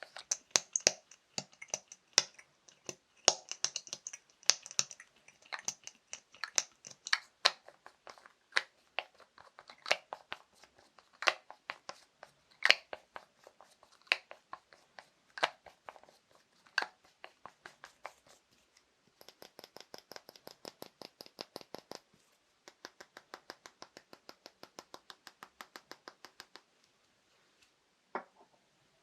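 Fast tapping on assorted small objects: irregular clicks and knocks of varying loudness for about the first two-thirds, then two runs of quick, even, lighter taps at about eight a second, and a single tap near the end.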